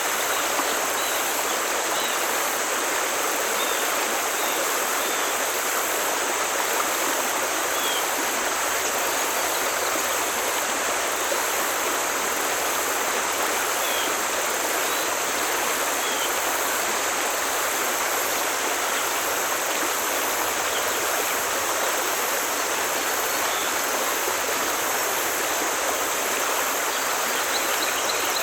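Forest stream rushing steadily over stones, an even, unbroken water noise. A few faint, short high chirps sound now and then above it.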